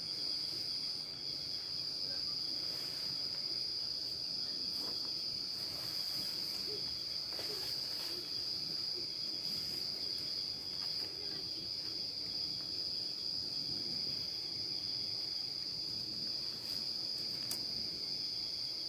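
Forest insects trilling steadily at one high pitch without a break, with a few faint clicks and rustles underneath.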